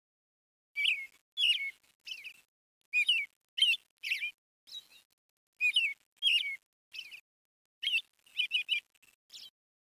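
A bird chirping: a series of short, curving chirps, mostly in pairs, with brief silences between.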